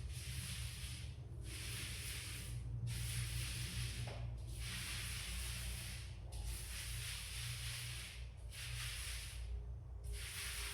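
Paint being spread on a wall in repeated strokes: a rough swishing sound about seven times, each stroke lasting a second or so with short pauses between, over a steady low hum.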